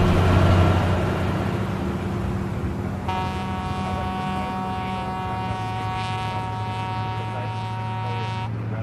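A vehicle engine runs on the road, loudest at the start and easing off over the first couple of seconds. About three seconds in a vehicle horn sounds and is held steady on a two-note chord for about five seconds, then cuts off suddenly.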